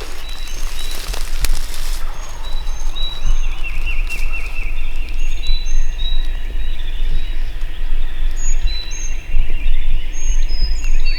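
Spring woodland chorus of songbirds: many short whistled chirps and a repeated warbling song, thickening after the first couple of seconds, over a steady low rumble. A rustling hiss fills the opening two seconds.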